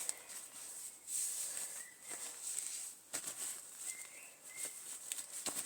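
Light clicks and knocks of a small metal Mamod SW1 model steam wagon being handled and fitted back together by hand, over a steady hiss, with a few faint short high chirps.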